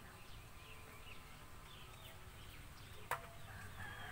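Faint, scattered bird chirps, with one sharp click about three seconds in.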